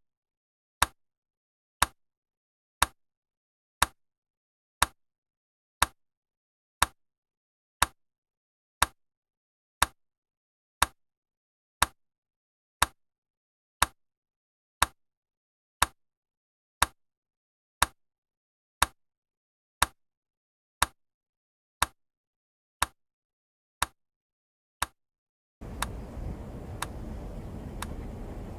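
Clock ticking, one sharp tick each second over dead silence. About twenty-five seconds in, a steady low background rumble of room noise comes in, with the ticks still faint beneath it.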